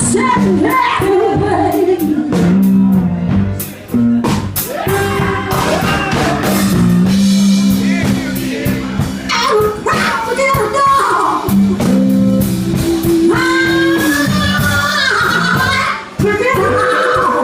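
Live slow electric blues band of two electric guitars, bass and drum kit, with bending, sustained guitar notes, a voice singing over it, and steady drum and cymbal hits. The sound dips briefly twice, just before 4 s and near 16 s.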